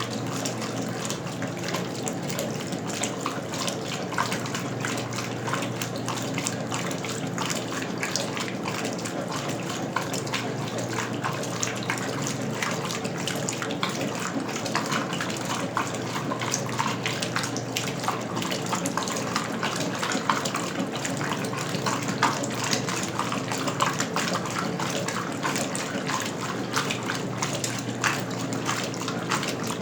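Westinghouse Lavínia washing machine (model LWAAP6KX, 1977) with water running and splashing in its tub, over a steady low hum.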